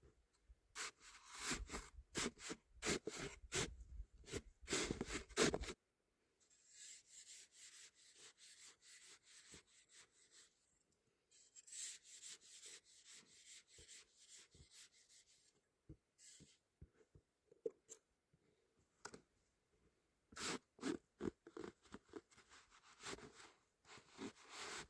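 Hand tools scraping and cutting into hard, icy snow: a run of strong scraping strokes for the first few seconds, then two stretches of quick, even, lighter strokes, and scattered sharper scrapes and knocks near the end.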